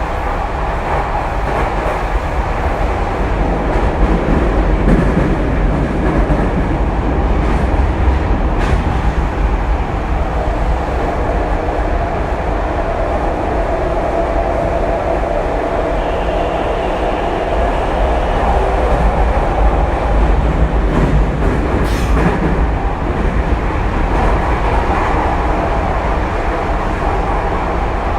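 Running sound of a Tokyu 2020 series electric train at speed, heard from inside the car: a steady, loud rumble of wheels on the rails with a steady motor hum. A faint high whine joins about halfway through.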